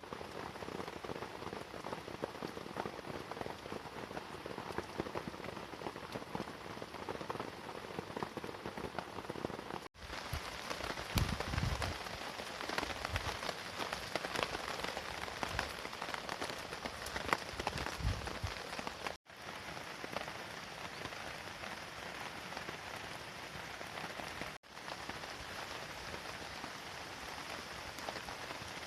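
Steady rain falling, a dense hiss of fine drop ticks. The sound breaks off abruptly three times and resumes, louder in the middle stretch with a few low rumbles.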